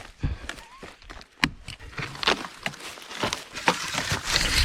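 Dry twigs, branches and leaves crunching and snapping in irregular sharp cracks, the sound of moving through and gathering dry brushwood for firewood.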